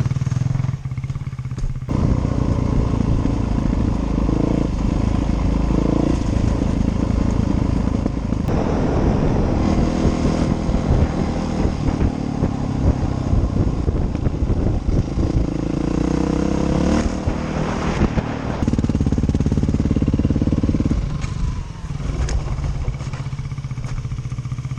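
Dirt bike engine running while being ridden on a trail, the revs rising and falling. It gets louder about two seconds in and eases off again near the end.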